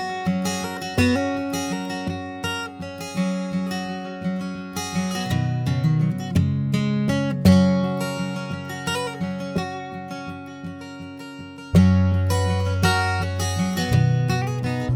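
Instrumental song intro led by strummed acoustic guitar, which gets louder about twelve seconds in.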